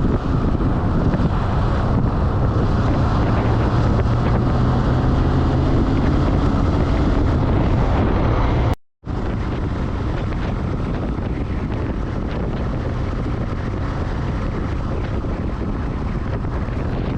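Wind buffeting the microphone while riding a motorcycle at speed, with a low engine drone underneath. The sound cuts out completely for a moment about halfway through.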